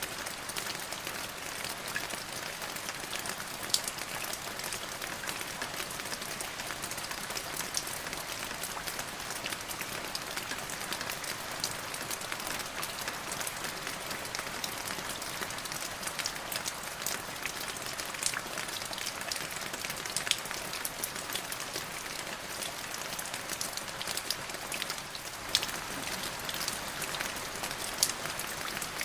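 Steady rainfall: an even hiss of rain with many distinct drops ticking sharply on a hard surface.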